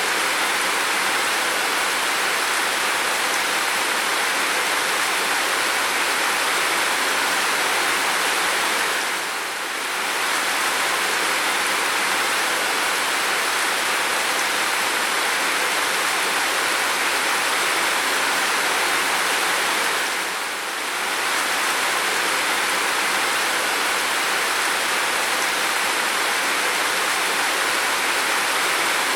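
Steady heavy rain, an even hiss of falling water that dips briefly about nine seconds in and again about twenty seconds in.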